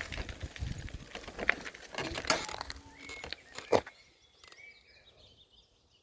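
Handling noise, rustles and several sharp knocks, the loudest a little under four seconds in; then the noise drops away, leaving faint bird chirps.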